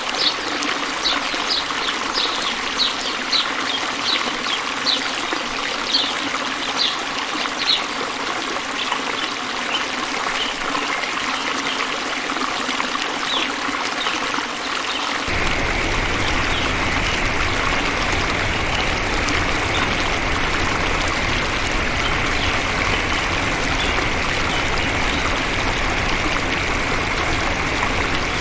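Water running steadily, with a bird giving short high chirps about twice a second over the first several seconds. About halfway through the sound changes abruptly to a louder, fuller rush of water with a low rumble.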